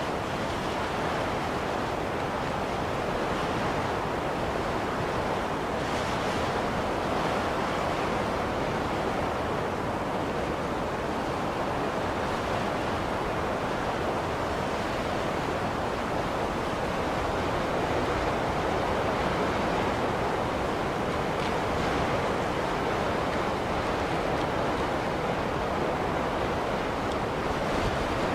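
Steady blizzard wind: an even, continuous rush of noise with a few faint swells of higher hiss.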